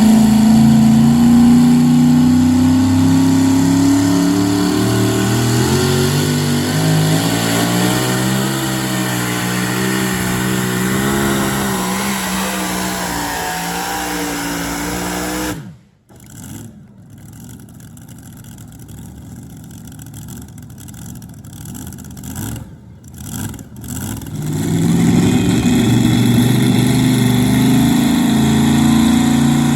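Super modified two-wheel-drive pulling truck engine at high revs under load, its pitch sagging and wavering. The sound cuts off suddenly about halfway through. After a quieter stretch, an engine revs up again near the end, rising in pitch.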